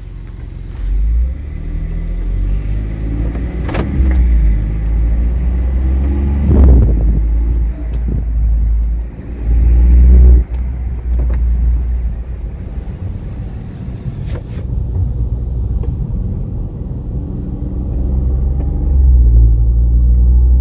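BMW 318i's turbocharged three-cylinder engine pulling under hard acceleration from inside the cabin, its pitch rising, with a few brief dips in the middle as the gearbox changes up. It is running a timed 50–130 km/h run on a freshly chiptuned ECU map.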